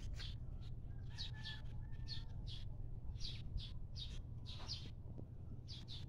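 Small birds chirping: short, high chirps that dip slightly in pitch, coming about one or two a second, with a faint held whistle partway through, over a steady low rumble.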